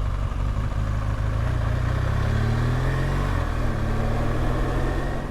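BMW R1200GSA's boxer-twin engine running under way, its pitch climbing for the first few seconds and then dropping back about three seconds in.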